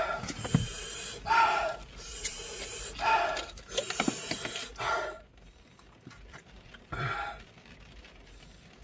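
A man gasping and sucking air through his mouth after eating very spicy food, about five sharp breaths roughly a second and a half apart, easing off after about five seconds. A few light clicks fall between the first breaths.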